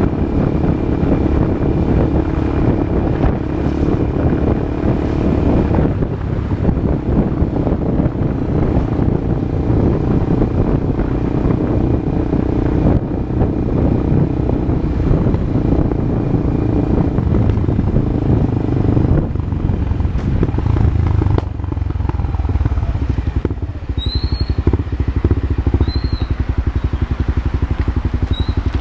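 Honda CB Twister single-cylinder motorcycle engine running loud through a new aftermarket exhaust, with a steady beat that shifts in tone about three-quarters of the way through.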